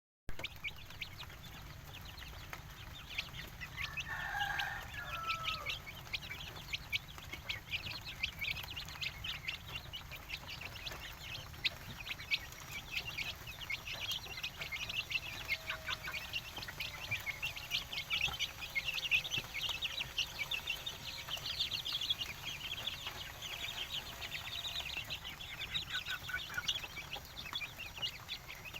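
Free-range village chickens (ayam kampung) clucking, with rapid high-pitched chirping throughout and one longer, louder call about four seconds in.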